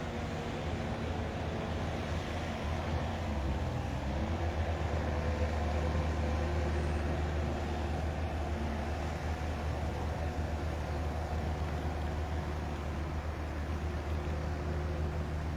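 Steady low rumble of a large engine running, with a faint steady whine above it, growing a little louder about four seconds in and easing back after.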